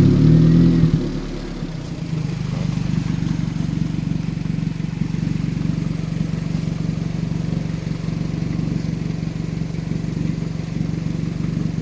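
Car engine idling steadily, with a louder burst in about the first second before it settles.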